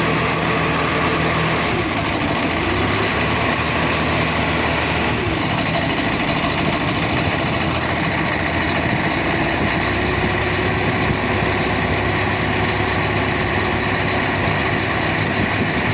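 A boat's engine running steadily at a constant speed, with a slight change in its hum a few seconds in.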